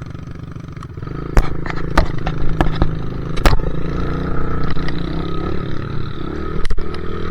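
Dirt bike engine running, picking up about a second in, with several sharp knocks and rattles over it.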